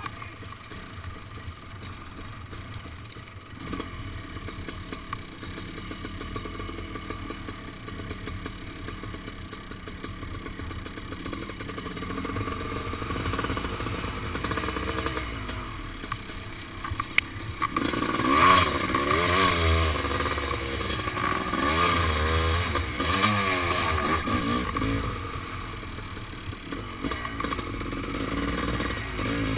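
Kawasaki KX500 two-stroke single-cylinder motocross engine running at low revs, then revved up and down several times from about 18 seconds in, easing back near the end.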